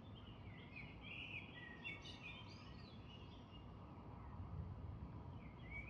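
Faint birdsong: a songbird sings a run of short, quick chirping phrases, stops about three seconds in, then starts again near the end. Under it is a steady low outdoor background noise.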